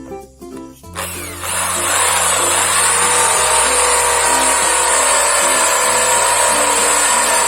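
An electric motor-driven machine or power tool switches on about a second in and runs steadily with a high whine and a loud rushing noise.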